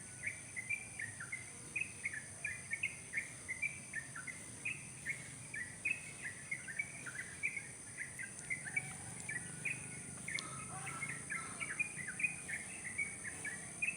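Wild songbird in a tree singing a continuous run of short, quick chirping notes, several a second, with a steady high-pitched insect hum underneath.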